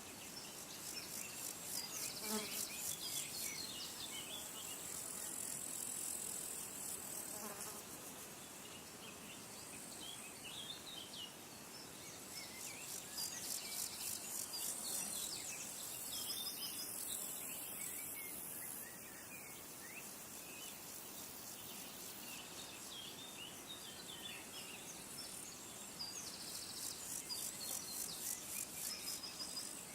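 Insects trilling in repeated high-pitched, finely pulsed bursts that come and go, with scattered faint bird chirps.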